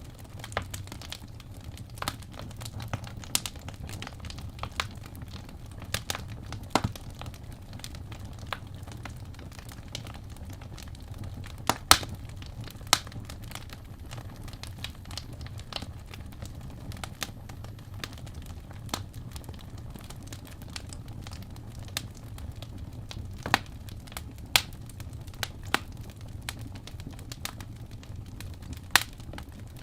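Wood fire in a fireplace crackling: irregular sharp pops and snaps of burning logs, a few louder ones about twelve seconds in, over a low steady rumble of the flames.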